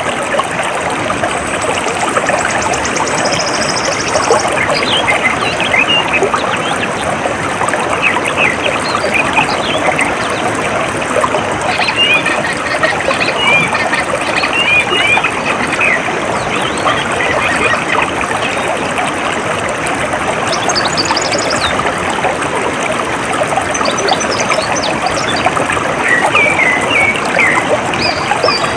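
Water trickling and babbling steadily, with small birds chirping on and off over it and a high, rapid trill during the first few seconds.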